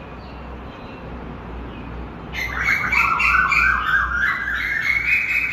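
Loud, harsh bird calls, chirping and squawking in quick fluttering notes, starting about two seconds in, over a low steady rumble.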